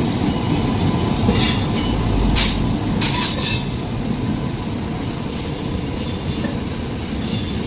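Train running on rails: a steady, dense rumble, broken in the first half by a few short, high wheel screeches.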